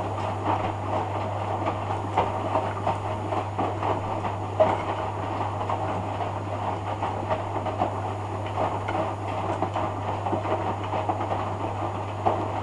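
Hoover Dynamic front-loading washing machine in its rinse cycle: the drum turning, with laundry and water sloshing and many small irregular knocks over a steady low hum.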